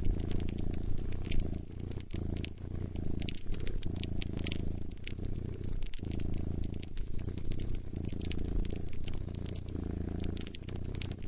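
Cat purring in steady swells with each breath, over a wood fire crackling with scattered sharp pops.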